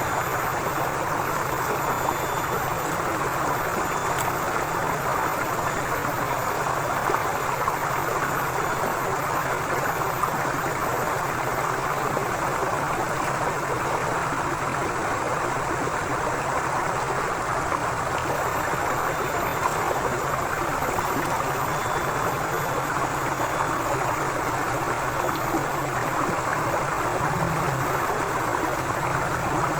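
Forest river flowing: a steady, even rush of water with no pauses or changes.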